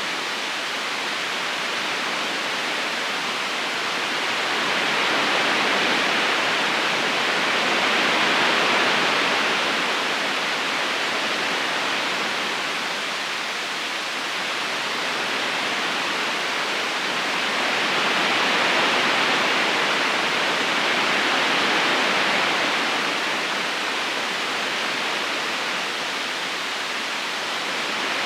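River current rushing steadily: an even wash of water noise that slowly swells and eases every several seconds.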